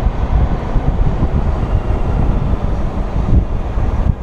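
Wind buffeting the microphone over the running flat-six engine of a Honda Gold Wing touring motorcycle being ridden at road speed, a loud, steady rumbling rush.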